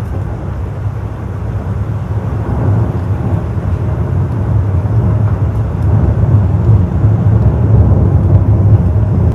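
Long rolling rumble of thunder, low and deep, growing steadily louder and still going at the end: pretty serious sounding thunder.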